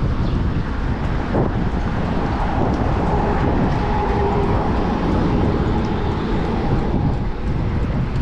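Wind buffeting the microphone of a moving bicycle, over street traffic noise, with a faint steady whine from about two and a half to seven seconds in.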